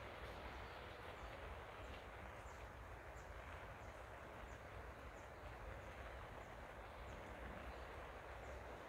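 Faint, steady outdoor background hiss, with a small bird's short high chirps repeating every half second or so.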